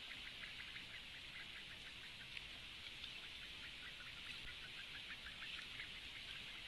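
Faint, rapid ticking calls, about five or six a second and evenly spaced, over a steady hiss: typical of great bittern chicks calling in the nest.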